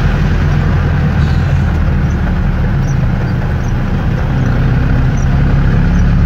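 V8 engine of a UAZ off-roader running steadily under way, heard from inside the cabin, its note rising a little about four seconds in. Under it runs an even hiss of rain and wet tyres.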